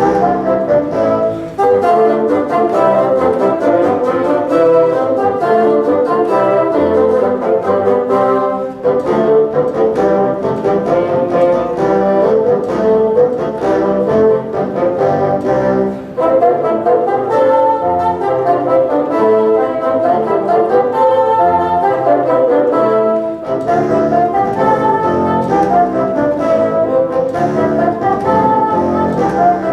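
A bassoon ensemble playing a piece in several-part harmony, the phrases separated by short breaks about every seven seconds.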